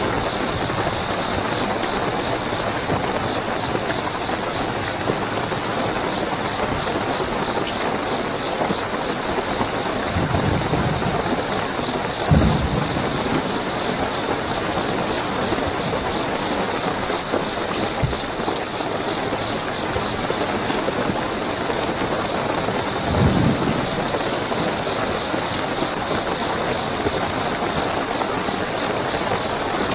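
Steady heavy rainfall with crickets trilling continuously at a high, even pitch. Now and then there is a short low thud or rumble, loudest about twelve seconds in and again past twenty.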